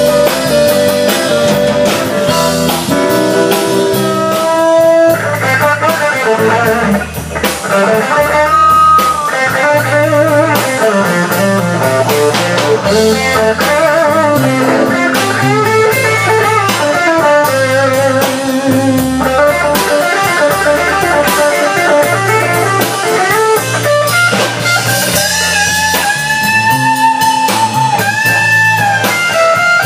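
Live band of electric guitar, bass guitar and drum kit playing an instrumental passage with no singing. The electric guitar plays lead lines with bent notes over a steady bass line and the drums.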